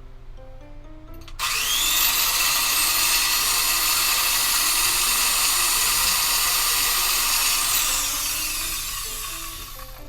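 A small handheld electric power tool starts about a second in, its motor whine rising as it spins up. It runs steadily for about six seconds, then winds down with a falling whine near the end.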